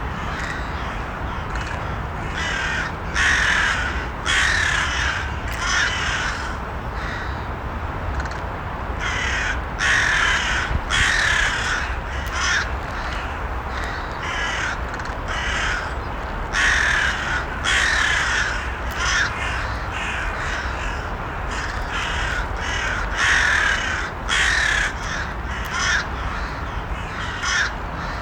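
Crows cawing, short harsh calls coming in runs every second or two, over a steady low background noise.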